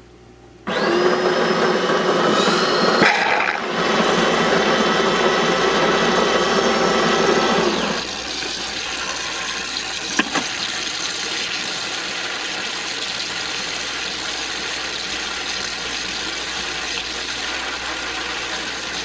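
De'Longhi Eletta fully automatic espresso machine starting up abruptly with a loud grinding, motor-driven whir from its built-in bean grinder for about seven seconds. It then drops to a quieter, steady running hum, with one sharp click partway through.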